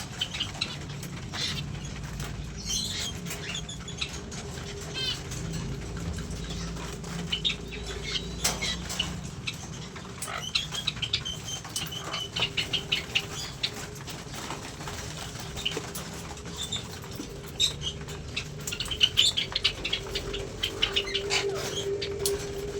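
A flock of aviary birds fluttering their wings, with short chirps and scattered clicks and scratches from perches and wire. A steady low hum runs underneath.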